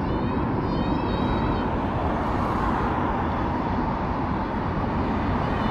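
Steady wind and riding noise on an action camera's microphone while cycling, with a faint high warbling squeal in the first second and a half.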